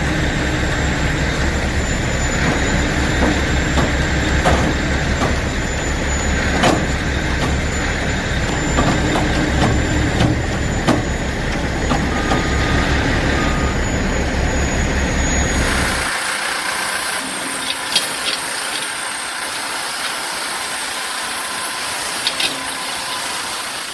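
A heavy machine's engine running with a low, pulsing rumble. About sixteen seconds in the rumble cuts off abruptly, leaving a quieter hiss with scattered clanks.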